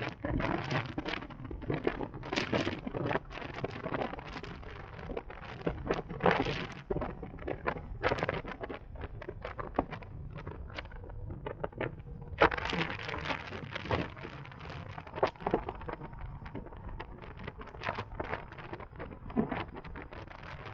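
Wind buffeting the microphone of a moving electric motorcycle in irregular crackling gusts, over a steady low road rumble.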